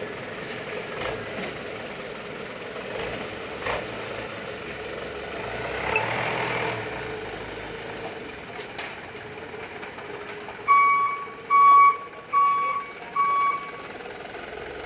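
Toyota Dyna dump truck's engine running steadily. Near the end come four short, loud, evenly spaced beeps from a reversing alarm.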